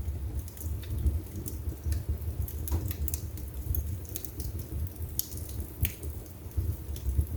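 Wood fire burning in a fireplace: a fluttering low rumble of flame with scattered crackles and small pops, two sharper pops about five and six seconds in.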